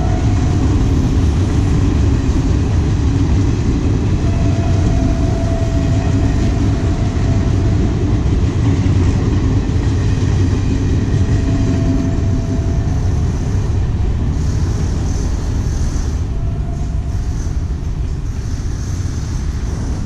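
Passenger coaches of a hard-braking express train rumbling past on the rails, with a faint squeal that comes and goes every few seconds. The rumble eases over the last few seconds as the end of the train goes by.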